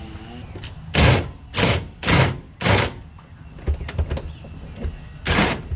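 A run of short, loud metallic bangs, four about half a second apart and one more near the end, from driving a bolt through a traction-bar bracket under the car, with fainter knocks between.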